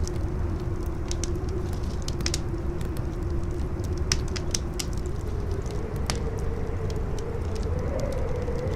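Campfire crackling with scattered sharp pops, over strong wind: a steady low rumble and a howling whistle that wavers and rises a little in the second half.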